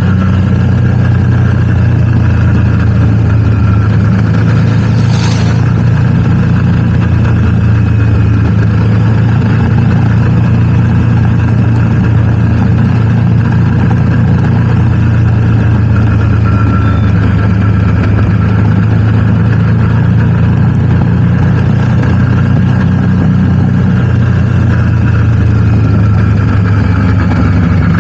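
Motorcycle engine running steadily at a constant speed while riding, a loud low drone that barely changes pitch. There is a brief whoosh about five seconds in.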